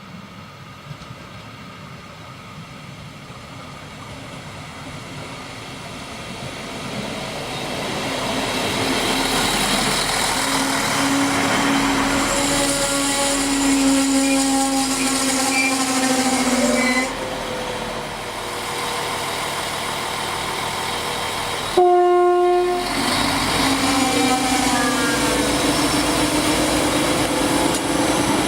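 Regional express train approaching and pulling into the halt, growing louder, with a steady whine for several seconds. A short, loud horn blast sounds about three-quarters of the way through, followed by a rising engine note.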